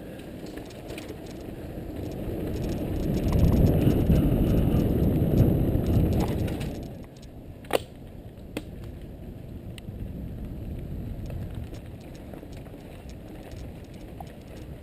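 Mountain bike riding a dirt trail: a low rumble that swells for a few seconds and drops off about seven seconds in. Then a sharp click, a second click just after, and a softer rumble.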